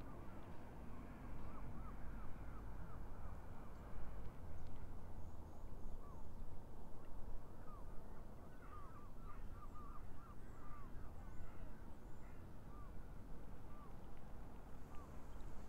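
Birds calling in short, repeated calls, bunched in two bouts, over a steady low rumble.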